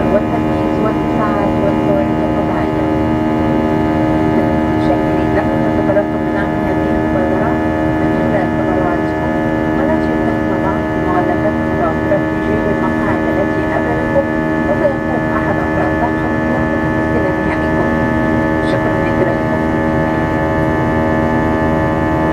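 Steady, loud, many-toned hum of an airliner cabin's air-conditioning while the aircraft is parked before departure.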